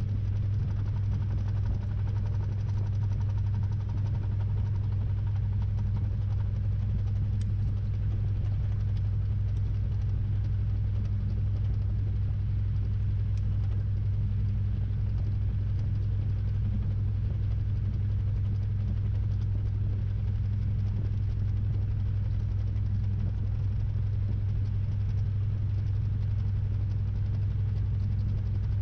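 Samsung 6.5 kg top-load washing machine running its spin, a steady, even hum and rumble heard from inside the drum.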